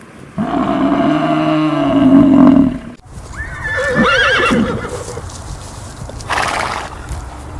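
A long, low, steady cow moo lasting about two and a half seconds, then, after an abrupt cut, a horse whinnying with a quickly wavering, shaking pitch, followed by a short breathy snort.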